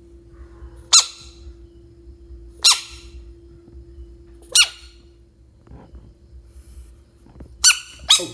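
A frog giving short, loud, high-pitched squeaks, each falling quickly in pitch: three spaced about two seconds apart, then two in quick succession near the end.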